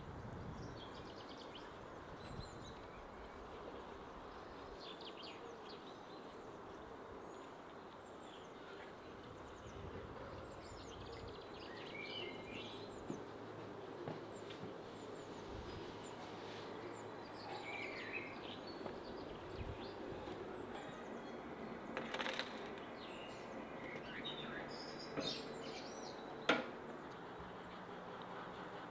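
Faint outdoor ambience with small birds chirping now and then, and two sharp knocks, the louder one near the end.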